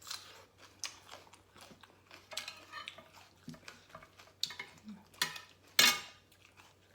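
Eating utensils clinking and scraping against a plate in a run of irregular taps, the loudest one a little before six seconds in.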